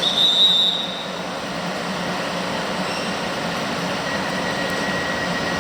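Train running through the station, a steady rumbling noise with a brief high squeal in the first second. A thin high whine sets in about four seconds in.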